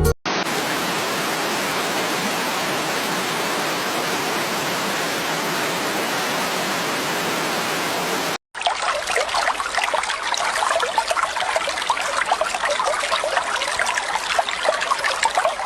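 Running water. A steady, even rush runs for about eight seconds, then stops at a sudden cut, and a stream with many small splashes and gurgles follows.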